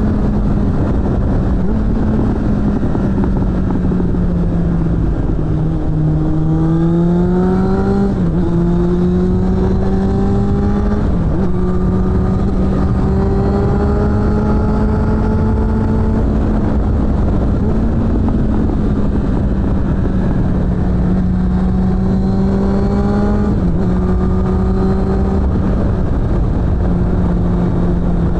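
Suzuki GSF600 Bandit's inline-four engine running through a BOS aftermarket exhaust while riding. The engine note climbs and eases with the throttle, with brief breaks in the note a few times, about 8, 11 and 23 seconds in.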